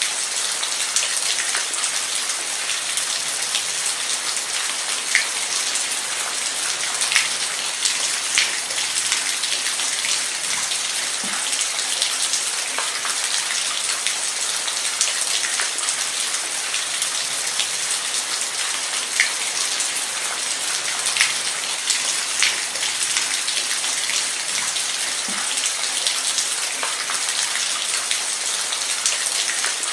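Steady rain falling, with scattered sharp ticks of individual drops striking close by.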